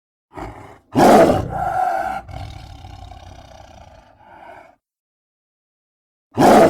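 Smilodon (sabre-toothed cat) creature roar sound effects: a short call, then a loud roar that starts sharply about a second in and trails off over about three and a half seconds. After a gap of dead silence, another loud roar begins near the end.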